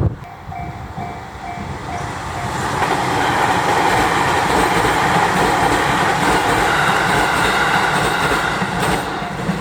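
JR 253 series electric train passing, its wheel and rail noise building to a steady rush and easing off near the end. A level-crossing bell dings in quick repeated pulses at the start.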